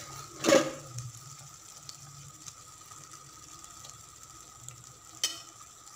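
Masala paste sizzling faintly as it fries in a clay pot. Two short knocks stand out, the loudest about half a second in and another near the end.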